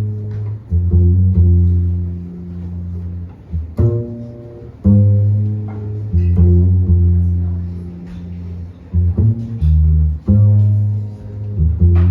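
Jazz bass playing plucked, sustained low notes in a slow line, with a couple of sharp drum or cymbal hits, one about four seconds in and one near the end.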